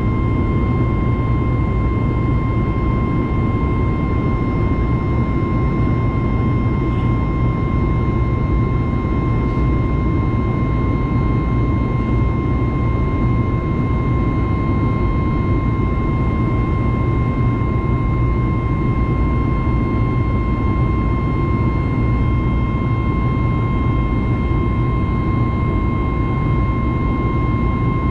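Inside the cabin of a Boeing 737 MAX 9, the CFM LEAP-1B jet engines run steadily: a loud, even rumble with a constant whine and a fainter tone an octave above it.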